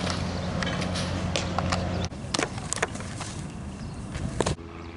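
Sharp knocks from softball drills, ball against glove or bat, over a steady low outdoor hum. The background shifts abruptly about two seconds in and again near the end.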